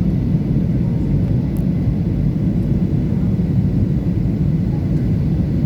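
Steady low rumble of engine and airflow noise inside a passenger airplane's cabin in flight.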